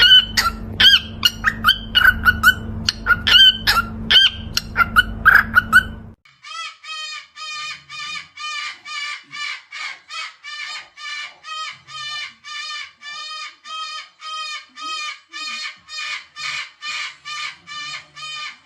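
Parrots calling. For the first six seconds there are loud, sharp, irregular squawks over a low rumble. After an abrupt cut, one short call repeats steadily about twice a second.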